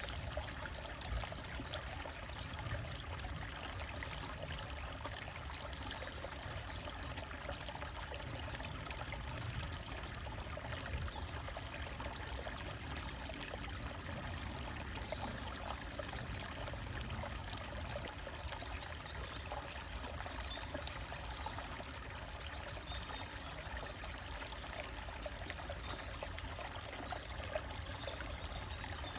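A small forest stream trickling steadily over rocks, with faint, brief bird chirps now and then.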